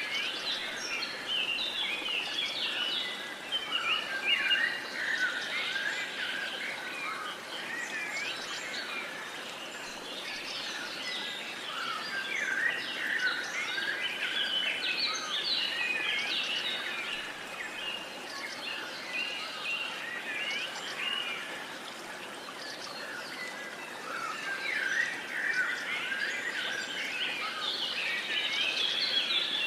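Dawn-chorus-style birdsong: many songbirds chirping and singing at once, in overlapping short phrases, over a steady outdoor hiss. The chorus thins out briefly a couple of times, then fills in again.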